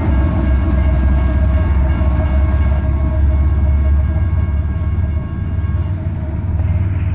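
Diesel-electric locomotives of a light engine move running past: a steady, deep engine rumble with a faint steady whine above it, easing slightly near the end.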